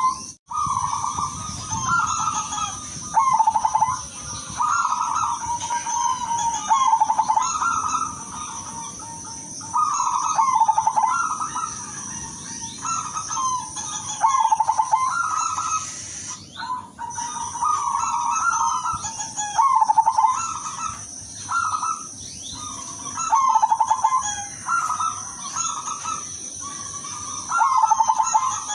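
Silver zebra dove (perkutut) singing its cooing song: trilled phrases repeated every second or two, over a steady high-pitched tone.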